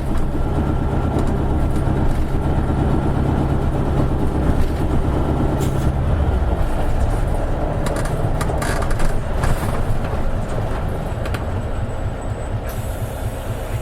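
Isuzu Erga (KL-LV280N1) city bus heard from inside: the diesel engine's steady low drone, which drops back about six seconds in, with interior clicks and rattles. A hiss starts near the end.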